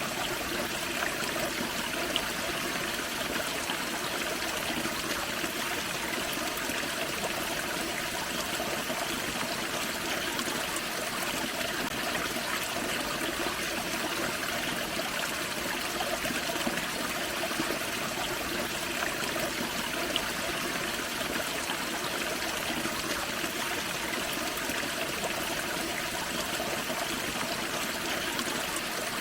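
Small forest waterfall and creek splashing and trickling over rocks, a steady, even rush of water.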